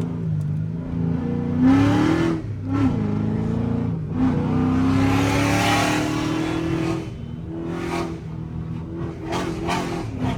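Chrysler 300C's 5.7-litre HEMI V8 accelerating on the road. Its pitch climbs briefly about two seconds in, then rises steadily for about three seconds before falling back near the seven-second mark.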